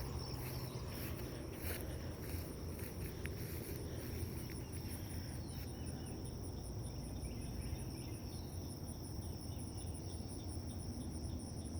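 Insects, crickets or similar, calling in chorus: a steady high-pitched trill with a second, rapidly pulsing trill higher still, over a faint low rumble.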